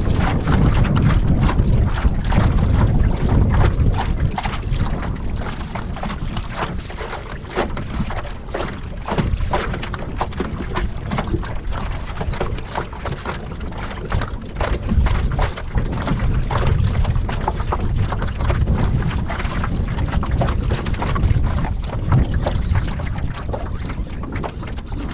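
Wind buffeting the microphone, with water lapping and splashing against a kayak hull; the wind rumble is heaviest in the first few seconds.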